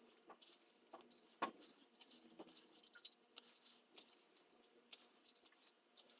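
Near silence with faint, irregular small clicks and taps of metal handling, one sharper click about a second and a half in.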